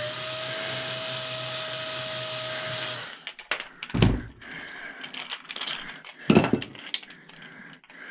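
Handheld electric power tool spinning up and running steadily for about three seconds, then cutting off; a few knocks of parts being handled follow, the loudest about four and six seconds in.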